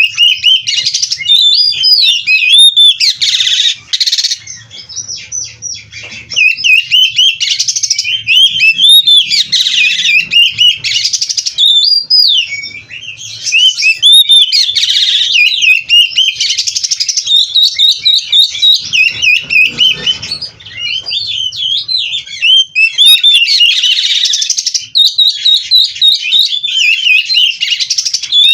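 Oriental magpie-robin (kacer) singing vigorously in a loud, continuous stream of fast, varied whistled phrases packed with mimicked fill-ins, broken by a few short pauses.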